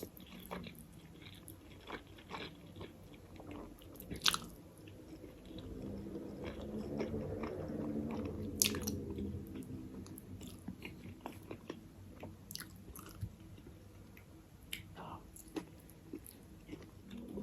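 A person biting and chewing food close to the microphone, with scattered short crunches and mouth clicks.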